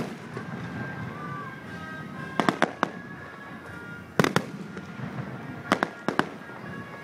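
Fireworks going off: sharp bangs and pops in three quick clusters, about two and a half, four and six seconds in.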